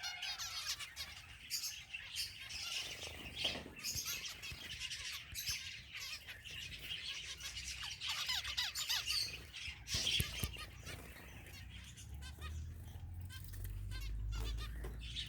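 White finches chattering, a steady stream of many short, high chirps and calls overlapping one another. A low rumble comes in near the end.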